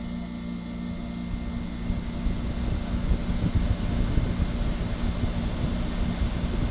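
Window air conditioner running in cooling mode: its fan blowing air with a fluttering low rumble over a steady hum from its LG rotary compressor. The compressor is still pulling the unit down to cold.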